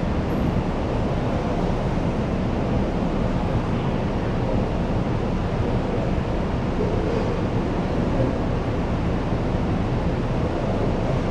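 Steady murmur of a crowded school canteen: many voices chattering at once, blended into an even low wash with no single word standing out.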